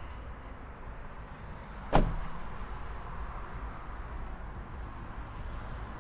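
A single sharp thump about two seconds in, over steady low background noise.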